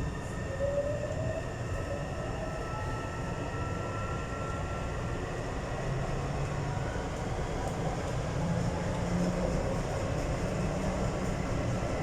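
Taipei Metro Tamsui–Xinyi line train running underground between stations: a steady rumble of wheels on rail. Over it the traction motors whine in a few tones that glide slowly upward, and the noise grows gradually louder as the train gathers speed.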